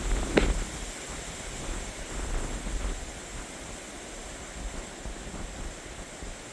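Strong gusty wind blowing steadily, with low rumbling buffets on the microphone. A brief, sharp sound is heard about half a second in.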